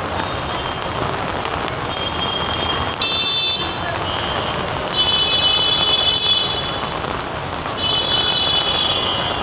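Heavy rain falling steadily, with high-pitched vehicle horns honking three times: briefly about three seconds in, then longer blasts around five to six and a half seconds and near eight seconds.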